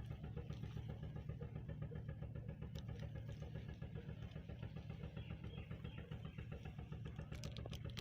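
An engine running steadily at idle with a rapid even pulse, and a few light clicks near the end.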